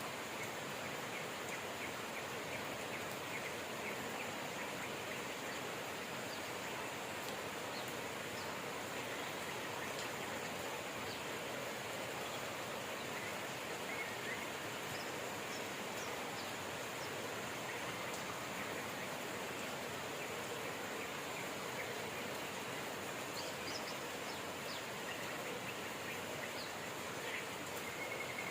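Steady rain falling, with faint bird chirps now and then.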